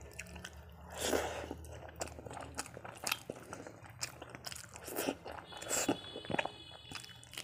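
A person chewing a handful of rice and curry, with short crunches and mouth clicks heard close to the microphone.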